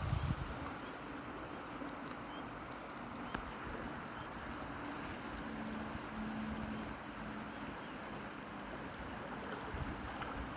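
Steady rushing of a river's current, with a brief low rumble at the start and a faint low drone that comes and goes in the middle.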